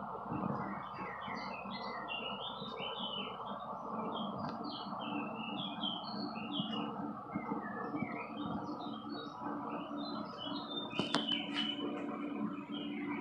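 Small birds chirping and twittering, many short, quick, varied chirps, over a steady background hum.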